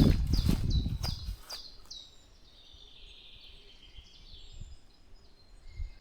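Forest birds calling. A quick run of short, repeated chirps over a loud low rumble in the first second and a half, then fainter, thinner calls.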